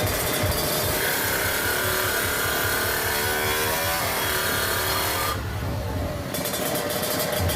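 Engine of a bored-up 300 cc Kawasaki Ninja motorcycle running, with fast low pulsing and a steady high whine over it for about four seconds; the sound changes about five seconds in.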